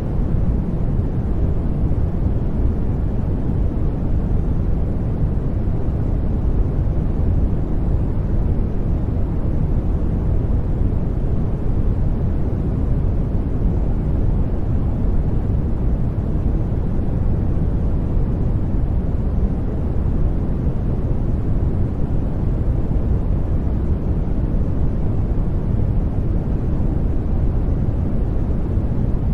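Steady, unchanging sleep-noise track: a soft rushing hiss weighted deep and low, like brown noise or a distant airplane cabin's rumble.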